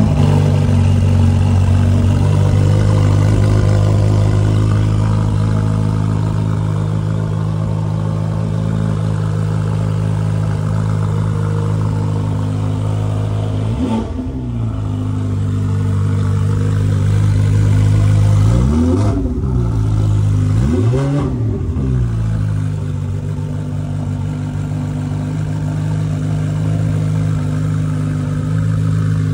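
Ferrari 488 Pista's twin-turbo V8 idling steadily, with three short throttle blips: one about halfway through, then two close together a few seconds later, each rising and falling quickly.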